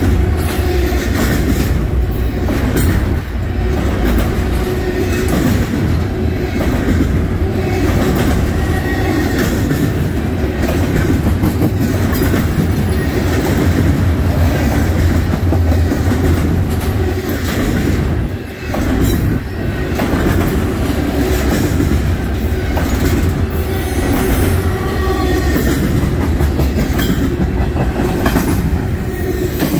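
Double-stack intermodal well cars rolling past close by. There is a loud, steady rumble of steel wheels on rail with clickety-clack over the rail joints, dipping briefly about two-thirds of the way through.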